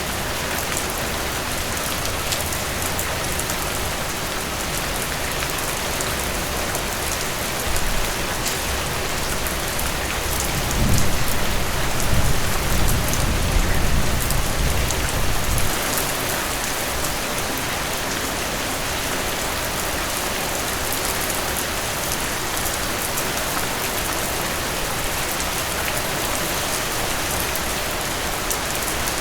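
Heavy rain pouring in a steady hiss, with a low rumble of thunder rolling in and out between about 8 and 16 seconds in.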